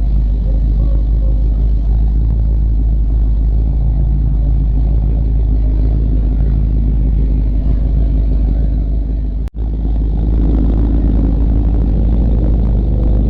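Vehicle engines and exhausts rumbling steadily as trucks and cars cruise past, with some revving; the sound drops out for a split second about nine and a half seconds in.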